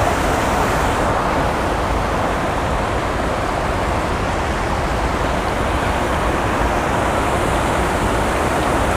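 Steady rush of creek water pouring over a spillway, an even noise with no breaks.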